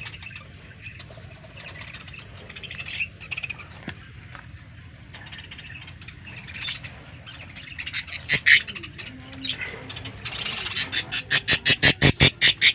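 Birds chirping and calling, with scattered calls and a louder one about two-thirds of the way through. Near the end a bird breaks into a fast run of loud repeated calls, about five a second.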